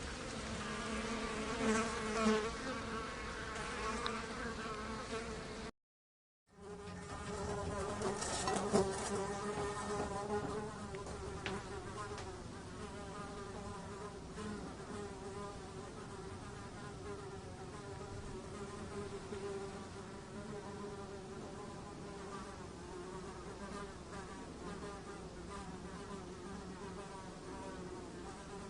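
A fly buzzing in flight, its pitch wavering as it moves. There is a short break of silence about six seconds in, after which another fly buzzing recording continues as a steadier drone.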